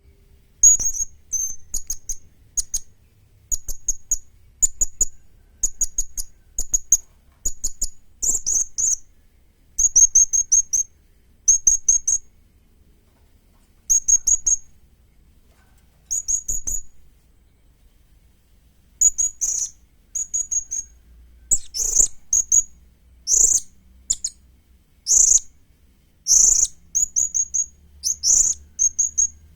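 Young serindit, a hanging parrot, calling in quick bursts of short, high-pitched chirps, several to a burst, with brief pauses between bursts.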